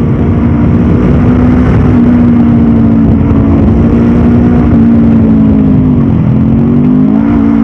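Stock Honda CB500F parallel-twin engine and exhaust running under steady throttle while riding. About six seconds in the revs drop briefly, then climb again.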